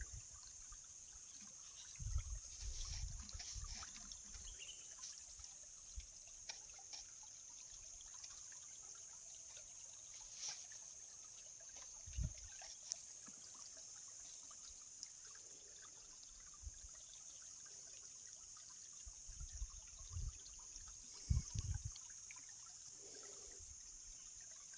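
A small stream trickling faintly, with a few low thumps scattered through.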